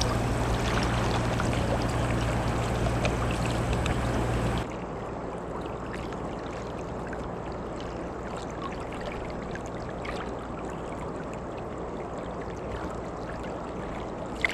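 A louder passage with a steady low hum, most likely the tail of background music, ends abruptly about four and a half seconds in. It gives way to the steady rush of river water, with faint small ticks.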